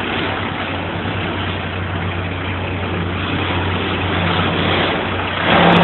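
Bobcat skid-steer loader's engine running steadily, getting louder shortly before the end.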